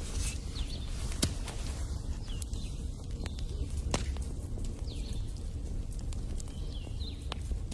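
Wood fire crackling in a fireplace: scattered sharp pops and snaps over a low steady rumble.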